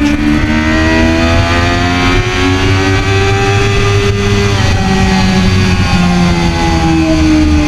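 2013 Kawasaki ZX-6R's inline-four engine running hard on track, heard from on board. The revs climb slowly through the first half, then fall off gradually through the second.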